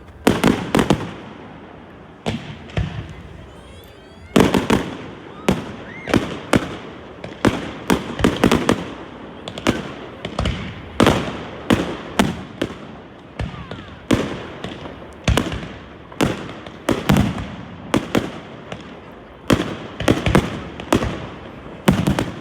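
Fireworks display: a steady run of sharp bangs, one or two a second, each trailing off in a short echo.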